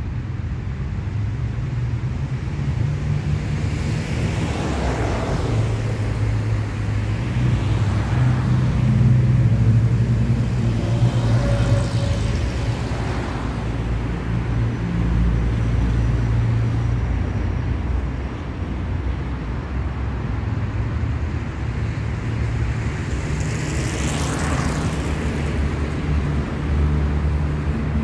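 City street traffic: a steady rumble of engines with several cars passing by one after another, the loudest pass late on.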